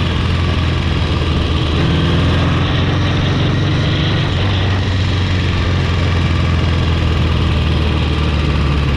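Engine of a 1,000 cc vintage motorcycle running steadily under way, a continuous low drone.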